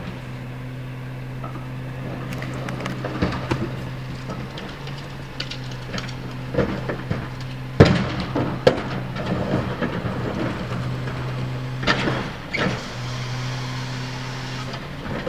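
Refuse truck engine running steadily, with repeated knocks, thuds and clatter of trash being loaded; the loudest is a sharp bang about eight seconds in.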